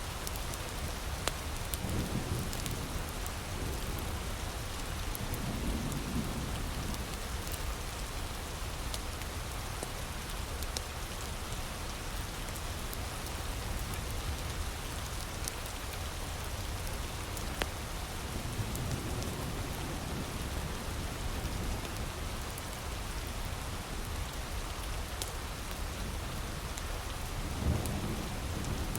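Heavy rain falling steadily, with sparse crackles and pops from a wood fire. A few soft, low rumbles swell and fade under the rain.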